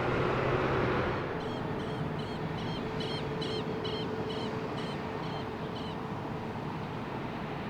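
Steady jet aircraft rumble, loudest in the first second and then easing off a little. Over it, from about a second in, a bird gives a rapid series of short, high calls, two or three a second, stopping about six seconds in.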